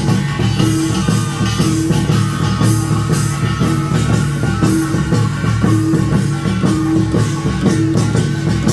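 Korean nongak farmers' band playing: small hand gongs and drums beating a driving, steady rhythm with a continuous metallic ring.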